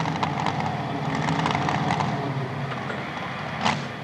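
Modified four-wheel-drive Chevrolet pulling truck's engine running hard under load during a pull, with a rough, crackling exhaust that eases off near the end. There is one sharp crack just before the end.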